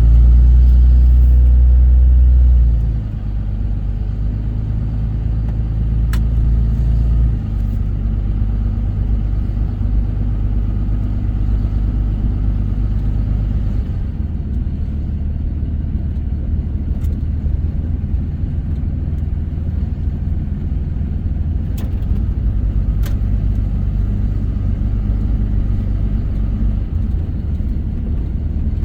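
Car driving on a dirt road, picked up by a dashcam: a steady low rumble of engine and tyres, loudest for the first three seconds, with a few sharp clicks along the way.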